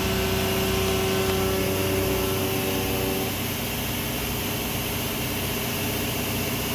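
Fadal 4020 CNC vertical machining center running, a steady machine whine over hum and hiss; about three seconds in the whine mostly fades and a rougher noise is left.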